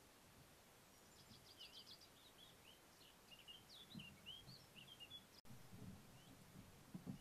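Faint songbird singing: a quick run of high chirps and trills for a few seconds, over quiet woodland background noise. There are a few soft low thumps in the second half.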